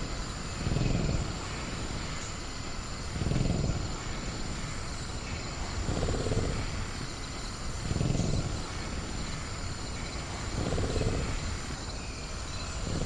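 Sound-designed velociraptor growling low in slow breaths, five swells about two to three seconds apart, over a steady high drone of crickets.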